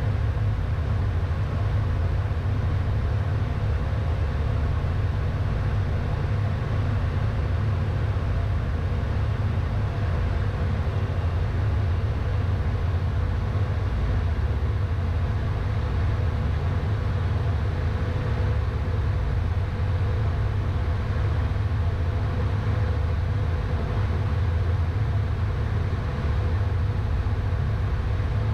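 Steady cockpit noise of a Beechcraft Premier I business jet on final approach: the rush of airflow and the hum of its twin turbofan engines, strongest at the low end and unchanging throughout.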